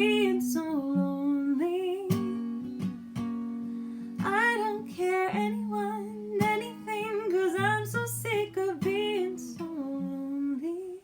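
A woman singing long, wavering held notes without clear words over a strummed acoustic guitar.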